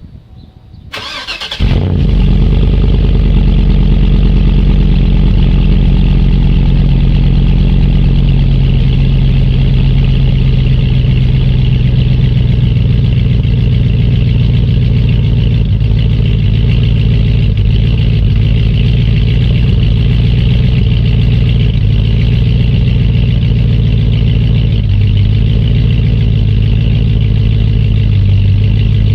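2009 GMC Sierra 2500HD's 6.0L LY6 V8 cold-starting through a Solo Performance Mach46 4-inch exhaust: the starter cranks for under a second, the engine catches, then settles into a loud, steady cold idle.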